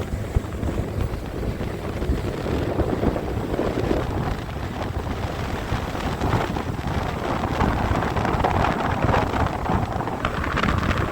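Heavy wind buffeting the microphone over the steady running noise of an aluminium fishing boat underway, powered by a Mercury 150 hp four-stroke outboard.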